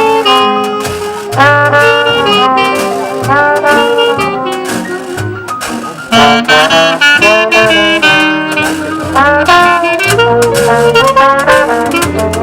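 Live New Orleans-style jazz band playing: brass horns in held notes and phrases over a keyboard bass line, with the dense clicking of a washboard keeping time.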